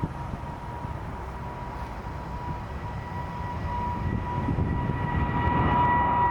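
Boeing 777 jet engines: a steady whine with a low rumble, growing louder over the last couple of seconds.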